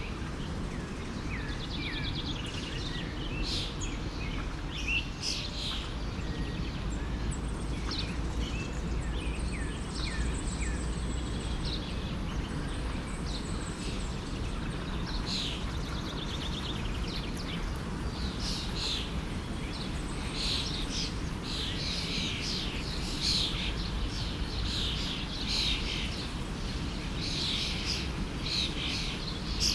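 Many birds chirping and singing over the steady rush of a forest stream. The bird calls grow busier in the second half.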